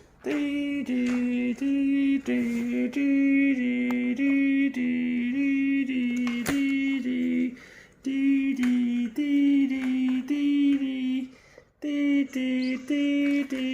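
A simple melody of short, evenly held notes stepping between a few close pitches, either sung or played by a toy, with two brief pauses, one about eight seconds in and one near the end.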